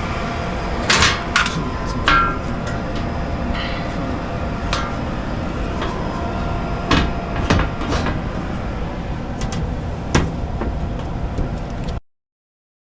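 A series of sharp knocks and clanks, about eight spread over the time, over a steady running noise from the furnace. Everything cuts off abruptly near the end.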